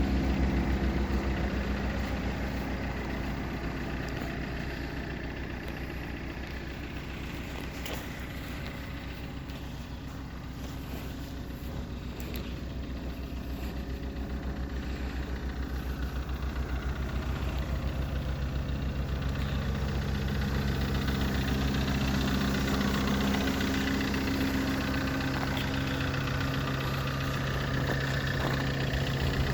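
Opel Corsa D's Z13DTJ 1.3-litre turbodiesel four-cylinder idling steadily with an even, rapid pulse. It is quietest about ten seconds in and grows louder, with a stronger low hum, through the second half.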